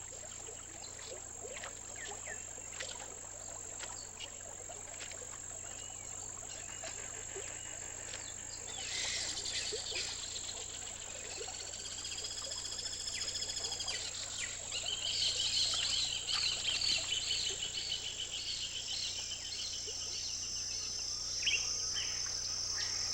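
Tropical wetland ambience: a steady high-pitched insect drone under scattered bird calls. From about 15 s on, one bird repeats a short note roughly twice a second.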